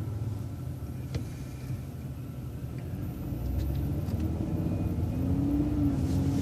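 Bus engine running, then pulling harder from about four seconds in, its tone rising as the bus accelerates.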